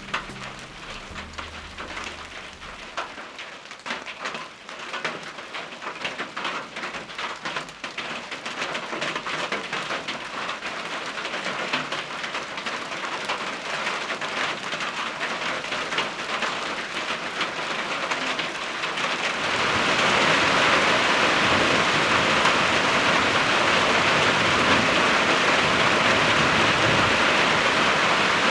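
Rain falling, at first as many separate drops ticking on surfaces, growing heavier until it turns into a steady, louder downpour about twenty seconds in.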